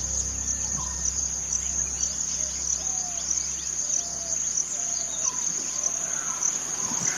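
Steady high-pitched insect chorus, with short chirping bird calls scattered through. A low hum dies away over the first few seconds.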